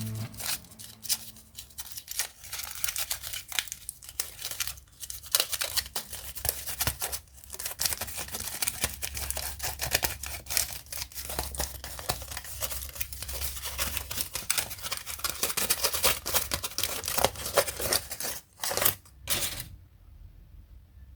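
Packaging being handled and torn open: dense crackling and rustling with many sharp clicks and tearing, stopping abruptly near the end.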